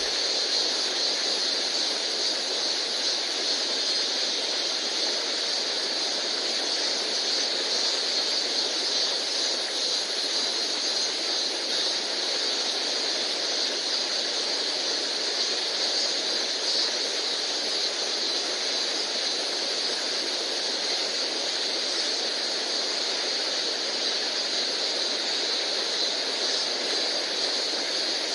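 Mountain stream water rushing steadily over rocks: an even, hissing noise with no break.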